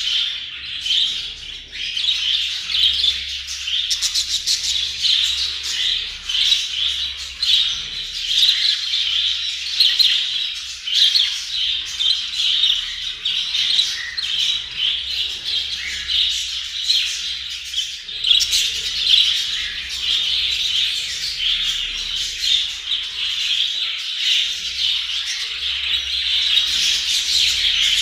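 Budgerigars chirping and chattering nonstop, many quick overlapping high chirps with no pauses.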